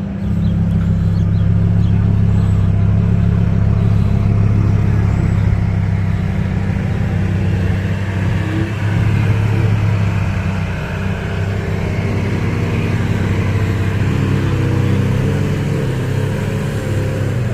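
Lamborghini engine idling with a steady, deep hum that does not rev up.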